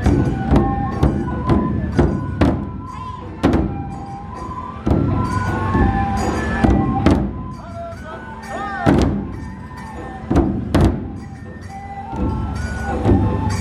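Japanese festival drum-procession music: a bamboo flute (fue) melody stepping between high notes over repeated heavy strikes of the large dō drum.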